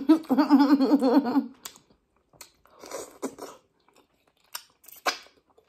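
A long, drawn-out wavering vocal sound of enjoyment for the first second and a half, then close-miked chewing of a mouthful of food: short bursts of wet smacks and crunchy clicks.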